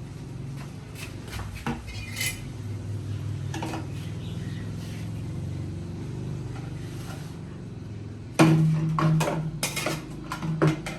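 Metal parts and tools clinking and clattering during rain gutter and downspout installation, with scattered knocks and a louder run of clanks near the end, over a steady low hum.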